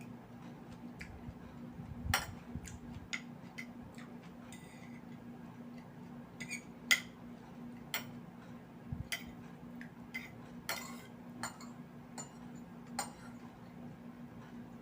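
Eating sounds: irregular light clicks and clinks, about a dozen scattered through, of utensils against a plate and chewing, over a steady low hum.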